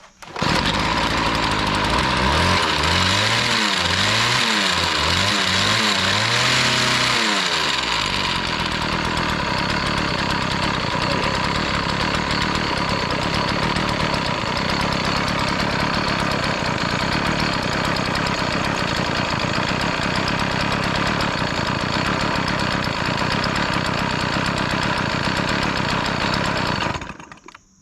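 Husqvarna 36 two-stroke chainsaw running, revved up and down about four times in the first eight seconds, then held at full throttle without dying, its carburettor screw newly set a turn and a half open; it cuts off about a second before the end.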